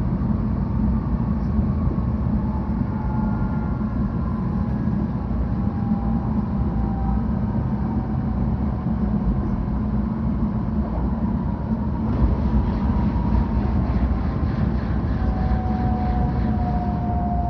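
Cabin noise inside a 700 series Shinkansen car while the train runs: a steady low rumble with faint whining tones that slide slightly in pitch, a little harsher from about twelve seconds in.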